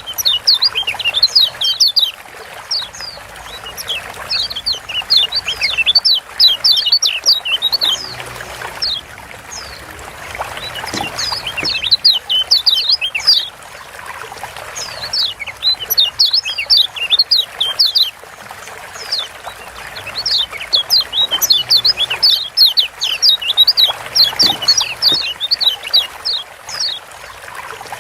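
Lombok yellow white-eye (kecial kuning) giving its ciak calls: bursts of quick, high, falling chirps that come in clusters every few seconds, over a steady trickle of running water.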